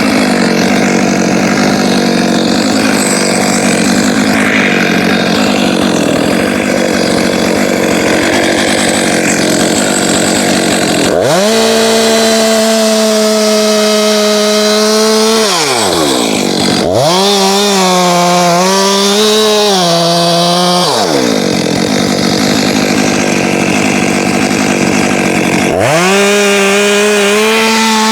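Two-stroke chainsaw cutting into a hackberry trunk, its engine note pulled lower and rougher under load. Several times it revs up to a higher, steady pitch and then falls back down as the throttle is released.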